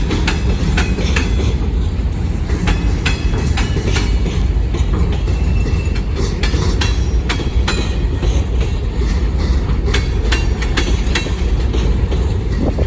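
Freight cars of a manifest train rolling past close by: a steady heavy rumble, with a rapid irregular clacking of wheels over rail joints and a few brief, faint wheel squeals.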